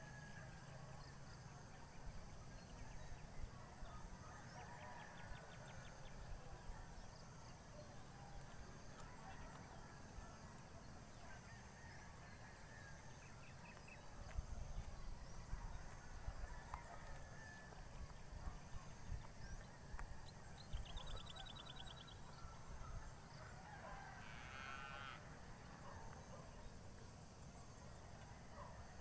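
Faint open-air ambience with scattered bird calls: short chirps and a few quick trills, over a steady low rumble.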